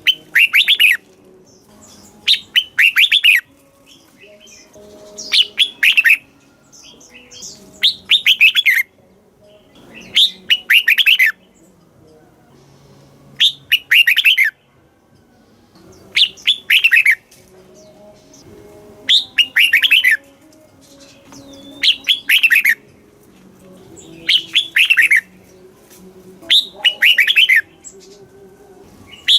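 Red-whiskered bulbul singing: short, bright warbled phrases of about a second each, with quick rising and falling notes, repeated about every two and a half to three seconds.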